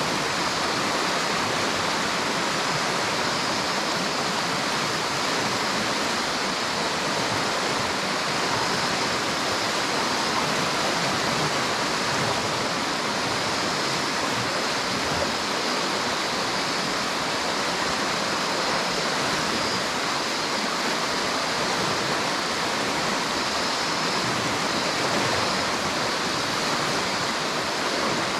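River water rushing steadily over rocks, an even, unbroken sound.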